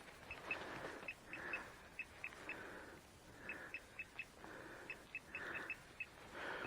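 Metal detector giving short high beeps in quick clusters of two to four as its coil is swept back and forth over a shallow target, with a soft swish on each pass.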